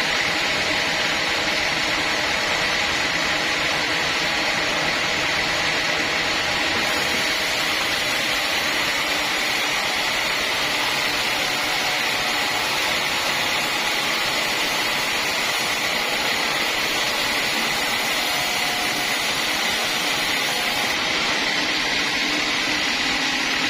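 Sawmill saw machinery running steadily, an even mechanical noise with a constant high whine.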